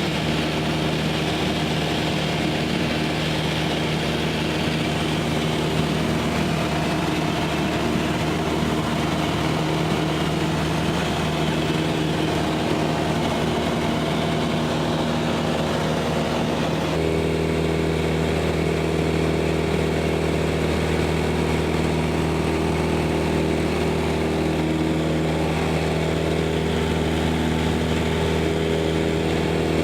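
Cessna 172S Skyhawk SP's four-cylinder Lycoming engine and propeller running steadily in flight, a continuous drone whose tone shifts about halfway through.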